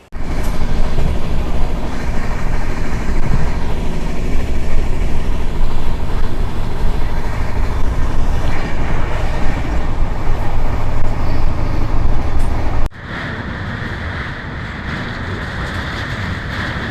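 Loud, steady rumbling noise of the Shraddha Setu SF Express running along the track, heavy in the bass. About thirteen seconds in, it cuts abruptly to a quieter, hissier rush of the moving train.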